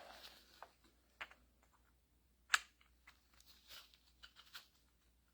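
Faint light clicks and taps of metal hydraulic gear pump parts being fitted into the pump housing by hand, with one sharper click about two and a half seconds in.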